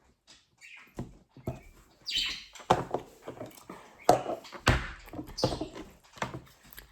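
Small toys being handled and set down: a series of irregular clacks and knocks, about one or two a second, with short bursts of rustling in between.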